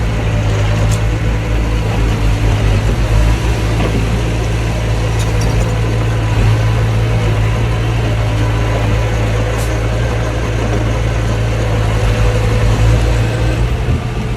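Mini bulldozer's diesel engine running steadily, a strong low hum with mechanical noise over it.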